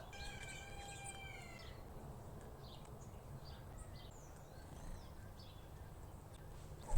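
Faint, scattered chirps of small wild birds around a fruit-and-seed feeder, with a brief thump at the very end.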